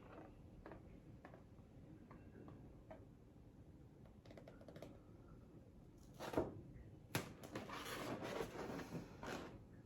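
Faint scattered taps and clicks of handling, then a sharper knock and a stretch of rustling and rubbing near the end, as a balloon is pressed into wet acrylic paint on a canvas and lifted off.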